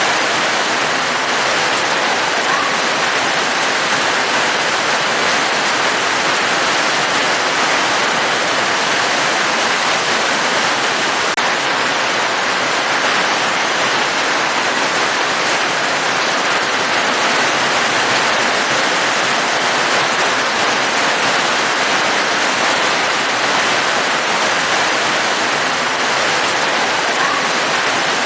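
Steady rain falling, a constant even hiss with no separate drops or pauses standing out.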